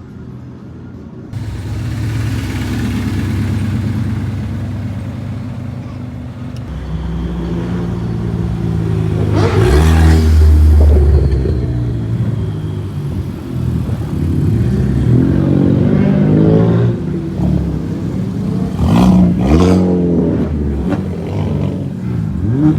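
Car engines revving and accelerating hard as cars pull out one after another, pitch climbing through the gears. The loudest pull is about ten seconds in.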